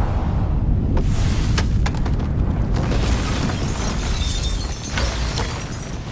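A deep, rumbling explosion in a fire, with sharp cracks about a second in and again near the end, easing off in the second half, with dramatic music underneath.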